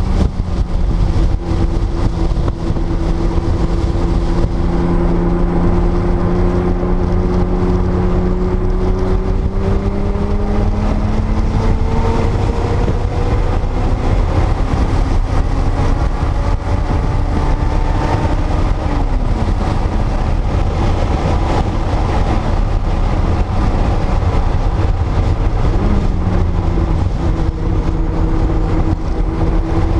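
1979 Porsche 930 Turbo's air-cooled turbocharged flat-six running hard at speed, its pitch climbing slowly through long pulls and dropping sharply twice, a little past halfway and near the end. A heavy low rumble runs underneath.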